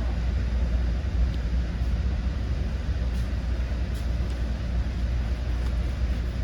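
Commuter train running along the line, a steady low rumble with a few faint ticks.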